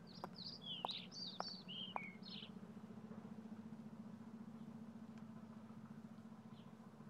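Small birds chirping in a quick run of short falling notes for the first two and a half seconds. Faint footsteps tick about twice a second underneath and stop about two seconds in, over a steady low hum.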